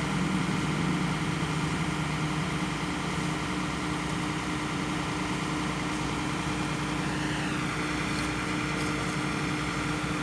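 Engine idling with a steady low hum, and a short falling whine about seven seconds in.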